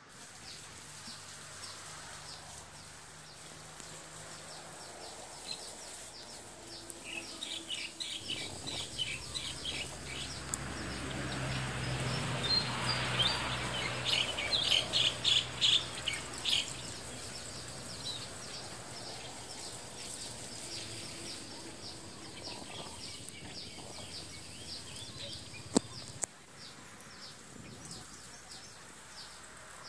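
Birds calling outdoors: quick repeated chirps throughout, with two louder runs, the loudest about halfway through. A low steady hum sits underneath, and there is a single sharp click near the end.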